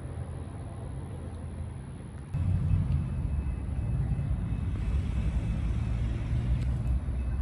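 Diesel locomotives of an approaching Norfolk Southern train, a low rumble that jumps suddenly louder about two seconds in and stays loud as the train draws near.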